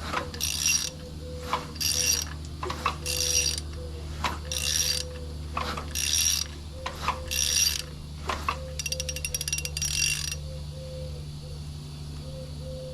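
Hand ratchet clicking in about six repeated strokes on the crank bolt of a Ford 6.2L V8, barring the engine over with its spark plugs out to push water from the cylinders. Each stroke starts with a sharp knock. A faster run of clicks comes near the end, then the clicking stops about ten seconds in.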